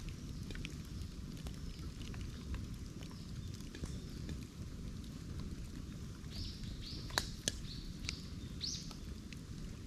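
Bamboo burning in an open fire: a steady low rush with scattered sharp crackles and pops, and two louder snaps about seven seconds in. A bird chirps four or five times in the second half.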